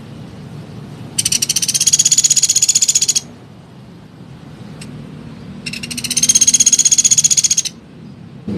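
A small woodpecker calling: two rapid, high, rattling trills, each about two seconds long, a few seconds apart.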